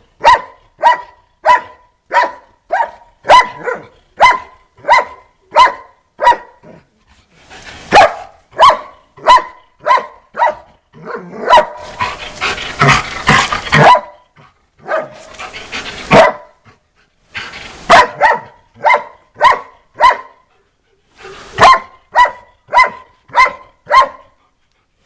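Dog barking rapidly and repeatedly, about two barks a second, with a couple of short pauses and a harsher, noisier stretch about halfway through.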